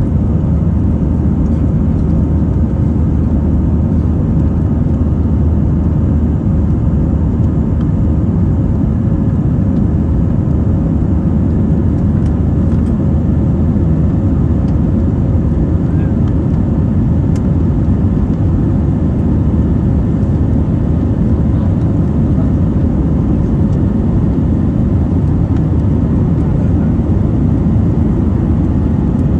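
Steady low rumble inside the cabin of an Airbus A320 airliner, with a faint steady hum over it; it holds level with no rise or fall.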